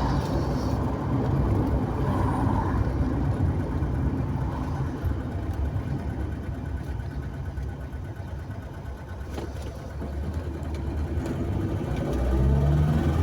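Car driving along a road: steady engine and tyre rumble, easing off a little past the middle and growing louder again near the end.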